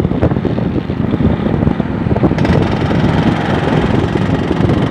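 Yamaha RX-King two-stroke motorcycle engine running while riding, with wind buffeting the microphone. The sound is steady and loud, and grows brighter and harsher a little past halfway.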